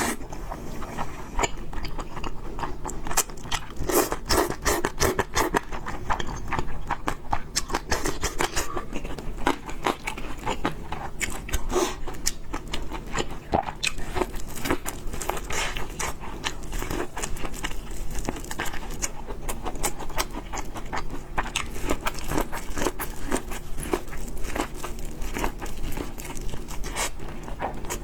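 Close-miked chewing and biting of fried noodles and pork: a dense, continuous run of small wet clicks and crunches.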